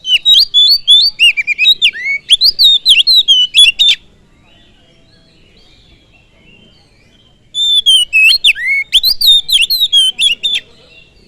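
Oriental magpie-robin (kacer) singing: two loud bursts of fast, varied whistled phrases with quick up-and-down sweeps, separated by a pause of about three and a half seconds.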